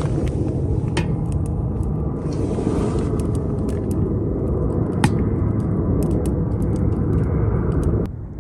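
Wood fire burning in a wood stove: a steady low rumble with scattered sharp crackles, cutting off abruptly near the end.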